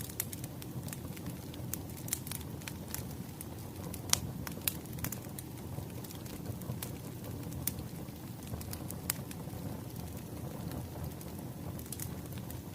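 Wood fire burning: a steady low rumble with irregular sharp crackles and pops, the loudest pop about four seconds in.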